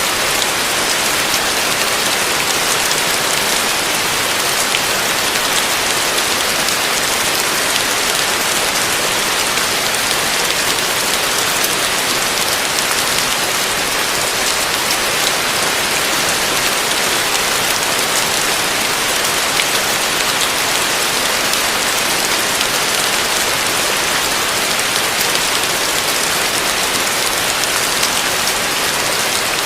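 Heavy rain falling steadily, an even hiss with no thunder and no single drops standing out.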